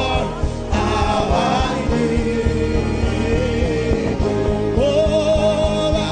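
Gospel worship music: voices singing long held and gliding notes over keyboard chords and a steady beat.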